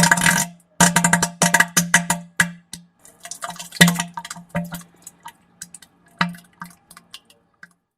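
Wet, sputtering fart sound: a buzzing tone broken by a run of splattering bursts that thin out and stop near the end.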